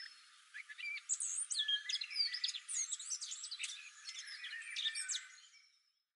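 Birdsong: a rapid series of short, high chirps and warbled notes from small birds, fading out near the end.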